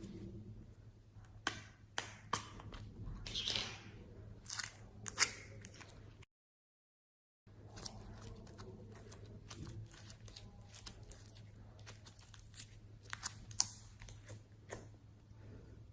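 Slime being handled by hand: irregular crisp clicks, crackles and pops. The sound cuts to dead silence for about a second, six seconds in, then the clicking resumes.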